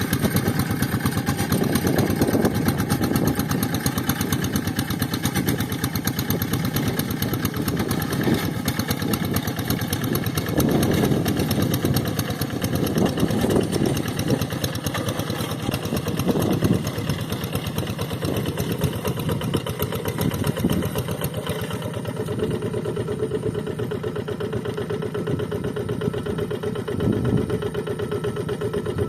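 Rice-field tractor's engine running with a rapid, even firing beat, swelling and easing as it works. About two-thirds of the way through the note settles into a steadier hum with less hiss.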